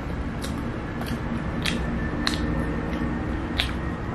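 Close-up chewing of a bitten pandesal sandwich, with sharp wet mouth clicks and smacks coming every half second or so over a steady low background hum.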